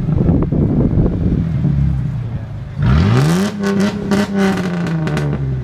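A parked car's engine revved hard in a rev battle. It is held at high revs, dips, then sweeps quickly back up about three seconds in and holds before dropping near the end, with sharp crackles over the top.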